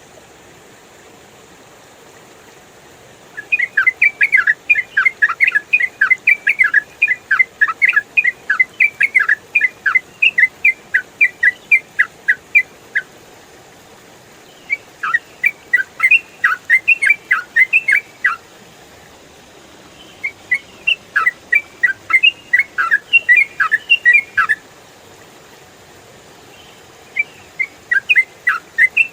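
Yellow-vented bulbul singing in fast, continuous chattering phrases. Four long bursts of rapid notes come in turn, each several seconds long with short pauses between, starting a few seconds in.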